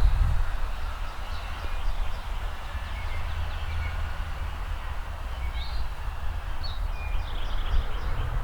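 Songbirds chirping and whistling in short calls, with a quick trill near the end, over a steady low rumble.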